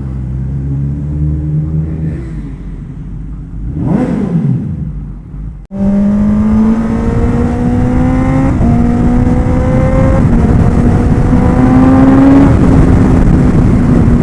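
Kawasaki Ninja ZX-10R's inline-four engine, first holding a steady pace with a brief rising-and-falling whoosh about four seconds in. After a sudden break about six seconds in, it accelerates hard, the pitch climbing and dropping back at three upshifts, with wind rushing over the microphone.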